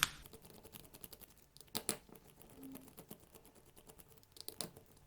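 Faint scattered clicks and taps of small plastic RC car parts being handled on a bench, with a louder click about two seconds in and a couple more near the end.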